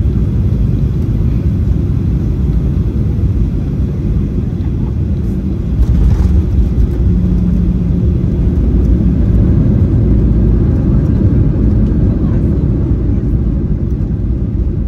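Boeing 737-800 heard from inside the cabin after landing: a steady low rumble from its CFM56 engines at low thrust and the wheels rolling on the pavement. It grows a little louder about six seconds in, and a faint steady hum sits under it for a couple of seconds.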